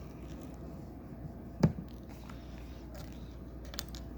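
Plastic Lego pieces being handled during a build: one sharp click about a second and a half in and a few faint ticks near the end, over a low steady hum.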